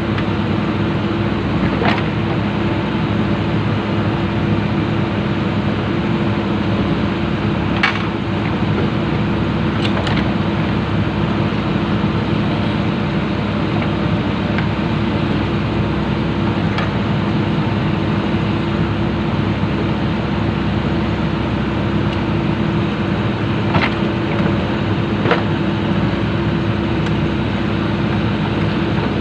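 Komatsu PC200 excavator's diesel engine running steadily, with a few sharp knocks scattered through.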